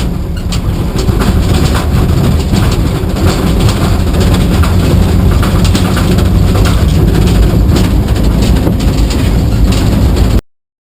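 Moving truck rumbling heavily, with a steady stream of metal rattles and knocks from its load bed and cage; the sound cuts off suddenly near the end.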